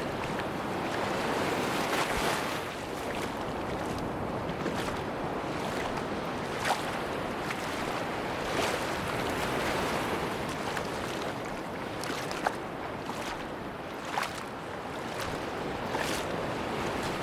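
Sea waves washing onto a beach in slow swells, with a few short sharp clicks scattered through.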